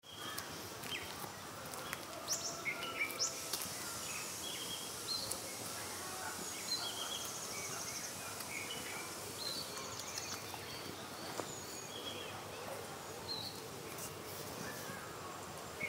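Small birds chirping on and off, short high calls scattered throughout, over a steady background hiss.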